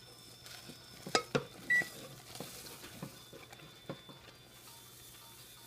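Spoon knocking and scraping in a saucepan as oatmeal is stirred into the hot cocoa mixture: a run of light taps, with two louder knocks about a second in. A brief high beep follows shortly after.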